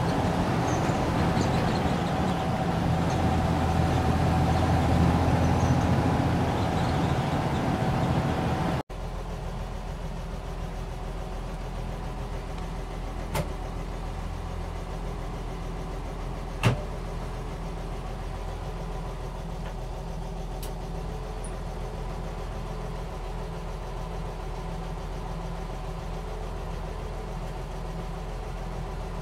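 1971 Toyota Land Cruiser FJ40's straight-six engine running while driving along a street, heard from inside the cab with road noise. After about nine seconds the sound cuts to the engine idling steadily and more quietly, with two sharp clicks a few seconds apart.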